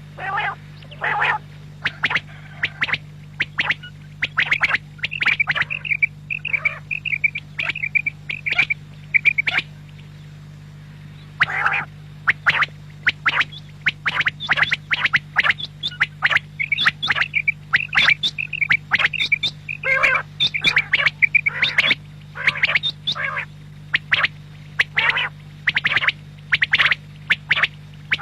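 Quail (batair) calling in rapid bursts of sharp, chirring notes and short trills, with a brief pause about ten seconds in. A steady low hum runs underneath.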